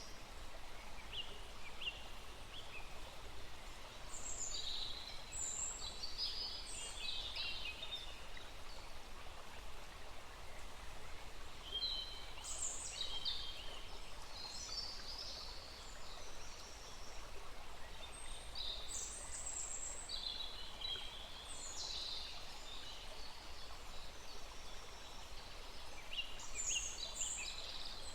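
Small forest stream running with a steady rush, while songbirds sing in short chirps and trills in clusters throughout.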